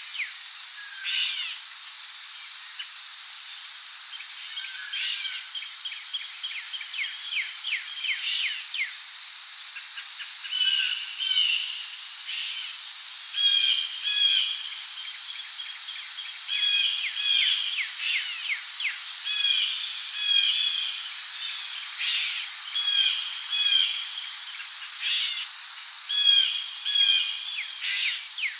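Rainforest ambience: crickets or similar insects keep up a steady high-pitched drone, while birds call over it with rapid runs of short falling notes and, from about a third of the way in, repeated doubled chirps every second or two.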